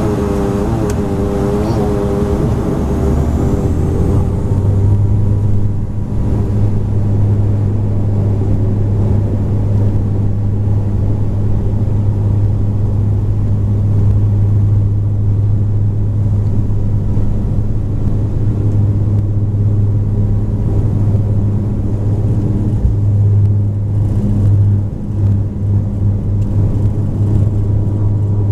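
Bombardier Q400's turboprop engines and six-blade propellers heard from inside the cabin. Wavering, shifting tones in the first few seconds settle into a steady low propeller drone.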